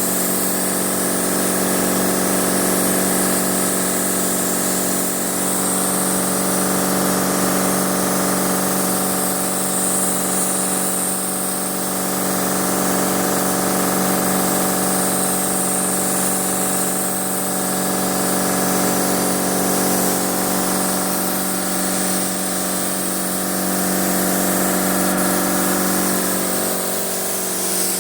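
Automotive paint spray gun hissing steadily on compressed air, over the steady hum of a running machine.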